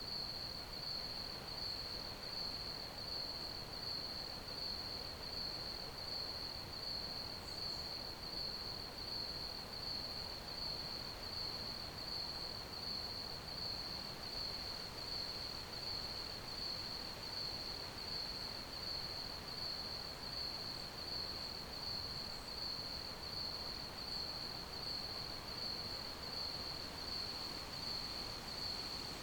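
Crickets chirping in a steady, unbroken pulsing rhythm of one high pitch, over a faint background hiss.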